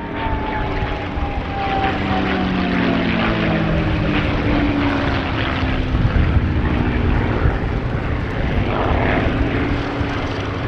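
Packard Merlin V-12 engine of a P-51 Mustang flying past, its pitch falling over the first few seconds as it goes by, then running on loud and steady.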